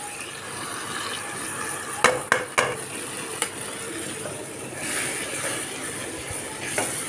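Onions, tomato and green chilli sizzling in hot oil in a metal pot as freshly added ground spices are fried in, while a ladle stirs them, knocking against the pot a few times about two seconds in.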